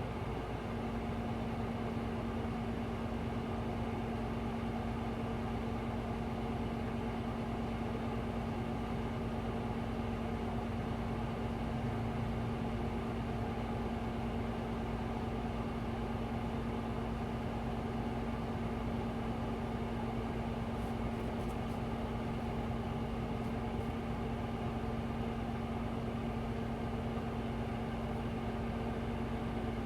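Hino Blue Ribbon City Hybrid bus running, heard from inside the cabin: steady engine and road noise with a continuous single-pitch buzzer tone that starts about a second in and holds. The tone is the over-rev warning buzzer, set off by the engine being revved hard.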